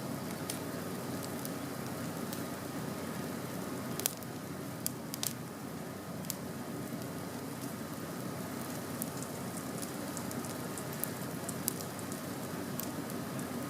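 Campfire burning with a steady hiss and scattered sharp crackles and pops of the wood, the loudest pop about four seconds in.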